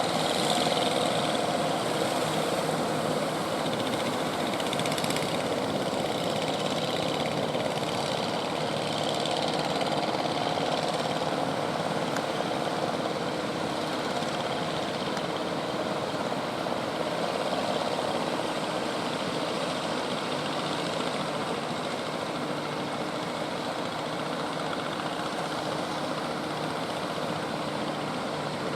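A motor engine running steadily over a continuous roar of surf.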